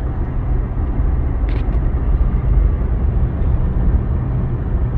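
Steady low rumble of a car's engine and road noise, heard from inside the cabin, with one short click about a second and a half in.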